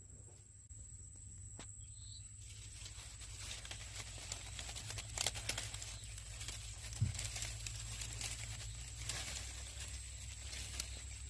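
Rustling and crackling with scattered light clicks, growing busier a couple of seconds in, over a low steady hum.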